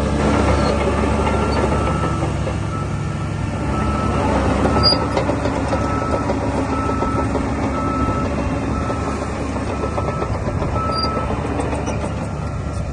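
DH17 C2 LGP crawler bulldozer's diesel engine running steadily under load, with its reversing alarm beeping evenly a little under twice a second for most of the time.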